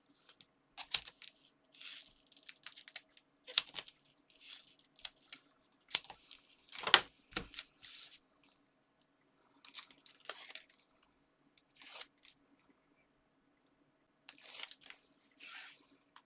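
Double-sided foam tape being torn off and its backing peeled away: a string of short ripping and crackling sounds. A faint steady hum runs underneath.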